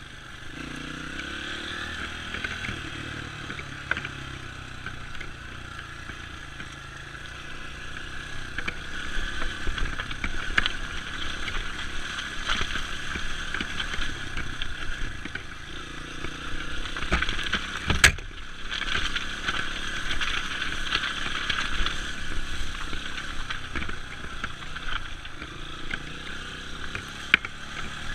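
Dirt bike engine running on a trail ride, with clattering and knocks over rough ground and one sharp loud knock about two-thirds of the way through.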